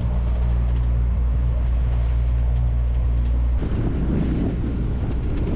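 A sailboat's inboard engine running steadily while motoring. About three and a half seconds in, this gives way suddenly to wind rushing over the microphone.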